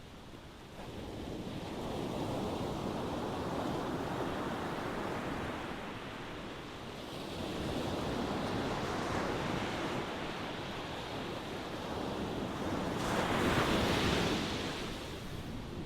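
Ocean waves washing ashore, the surf rising and falling in swells, the loudest wave breaking about 13 to 14 seconds in.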